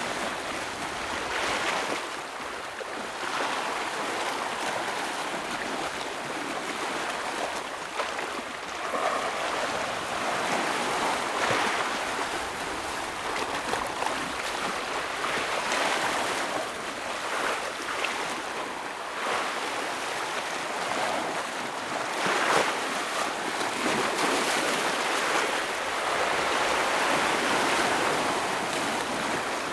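Ocean waves breaking and washing over rocks: a continuous rush of surf that swells and eases every few seconds, with sharper splashes now and then.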